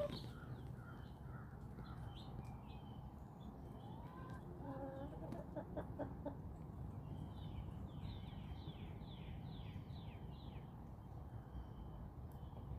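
Backyard chickens with songbirds: a hen gives a short pitched call near the middle, while small birds chirp repeatedly high above, with a quick run of falling chirps later on, over a steady low outdoor rumble.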